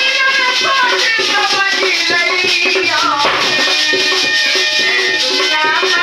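Hindi folk bhajan music without words: a melody line that slides up and down in pitch over steady rattling hand percussion.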